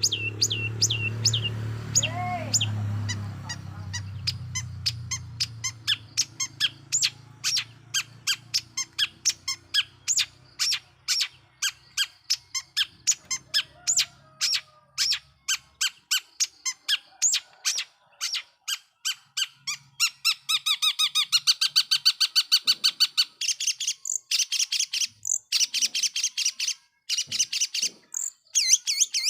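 Long-tailed shrike (cendet) in full song: a long run of sharp, short repeated notes, about three or four a second, breaking into a faster, denser chatter about twenty seconds in. A low background rumble fades out over the first few seconds.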